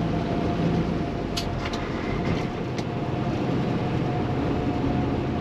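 Cab interior of a Kenworth T680 semi truck under way: the PACCAR MX13 diesel running steadily beneath tyre and road noise, with a few light ticks in the first few seconds.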